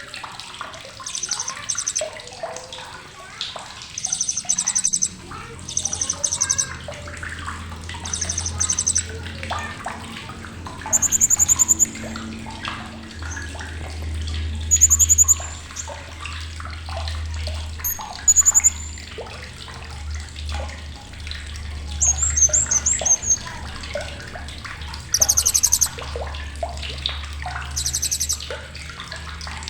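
Blue-crowned hanging parrot (srindit) giving sharp, high, buzzy chattering calls, each about half a second to a second long, repeated every one to three seconds. Many softer chirps run between them over a steady low hum.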